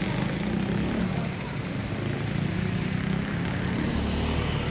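Street traffic: vehicle engines running with a steady low hum.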